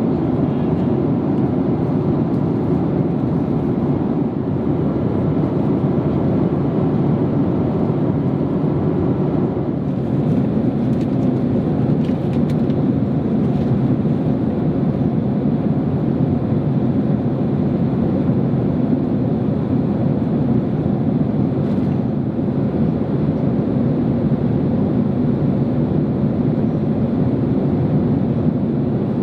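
Steady low rushing noise inside the cabin of a Boeing 767-300 airliner: jet engine and airflow noise, even in level throughout, with a few faint ticks.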